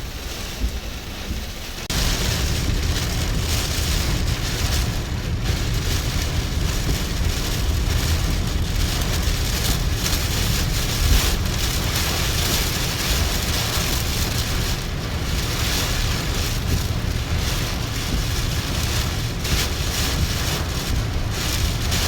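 Hurricane winds and heavy rain buffeting the microphone, a steady rushing roar with deep rumbling gusts, jumping louder about two seconds in.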